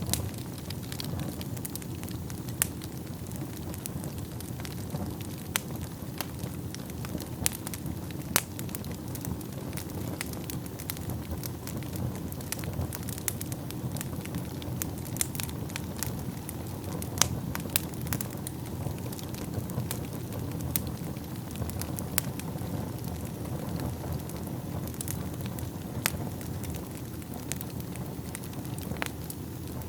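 Wood fire burning in a fireplace: a steady low rumble of flames with frequent irregular crackles and pops, a few of them sharp and loud.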